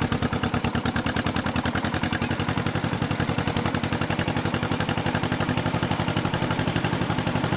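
1955 John Deere 40S two-cylinder engine running steadily while driving, its exhaust giving an even, rapid popping beat of about ten pops a second.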